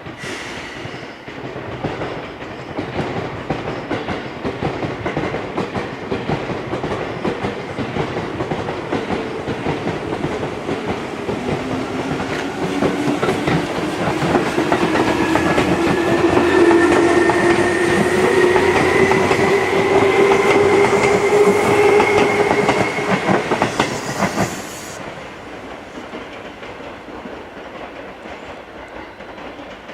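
Seibu 2000 series electric train pulling out and accelerating: its traction motors give a whine that climbs steadily in pitch, over a clatter of wheels on the rails. The sound grows louder, then falls away sharply about 24 seconds in.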